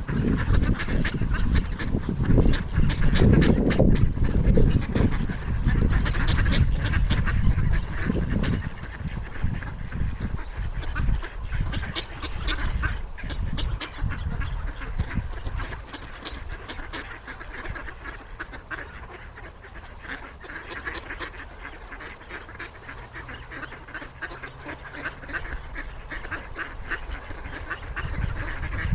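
A flock of ducks calling continuously, many short overlapping calls at once, as they beg for food. A low rumble sits under the calls for the first eight seconds or so, then drops away.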